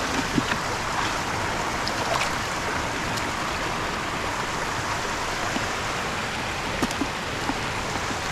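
Steady rush of flowing water, likely floodwater running after a storm, with a few small splashes and knocks scattered through it.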